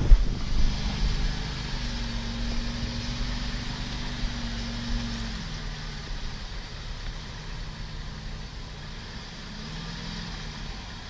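Off-road 4x4's engine idling steadily, its revs dropping to a lower idle about halfway through.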